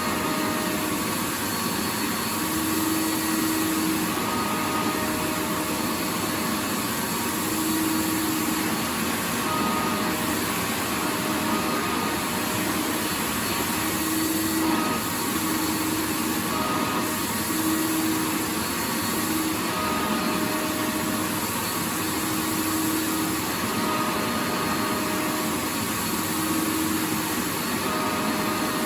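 Vacuum cleaner running steadily: a continuous even rush of air with a faint motor hum that comes and goes.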